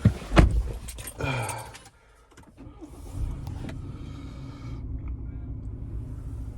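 A couple of sharp knocks in the first moment, then about three seconds in the 2019 Ford Ranger Raptor's 2.0-litre bi-turbo diesel starts and settles into a steady idle.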